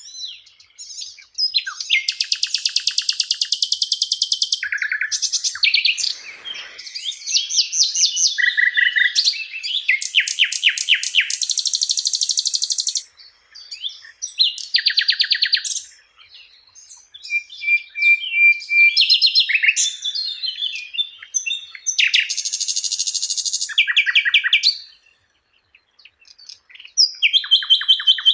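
Sikatan londo flycatcher singing in full voice, with long runs of fast trills and chattering phrases, each a second to several seconds long, broken by short pauses.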